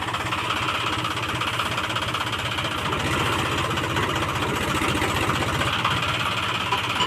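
John Deere 5310 tractor's three-cylinder diesel engine running steadily with a fast, even low throb.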